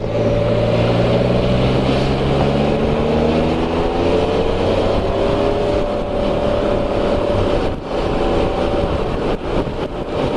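Can-Am Spyder RT Limited three-wheeler's Rotax 1330 three-cylinder engine running under way, its pitch climbing for a few seconds as it accelerates and then holding steady. Underneath is a steady rush of wind and wet-road noise from riding in rain.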